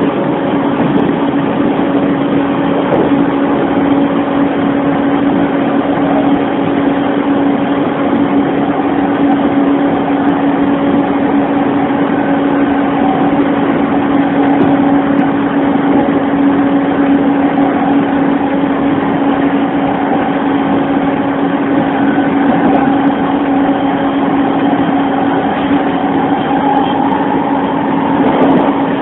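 JR East E231-1000 series electric train running at speed, heard from inside the passenger car: a steady motor hum over rumbling wheel and rail noise.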